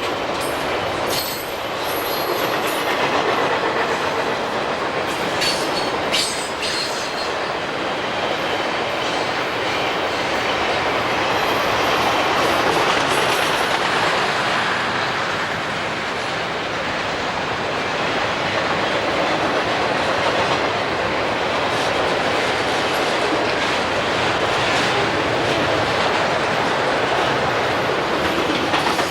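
Railroad train rolling past steadily, its wheels clicking over rail joints now and then.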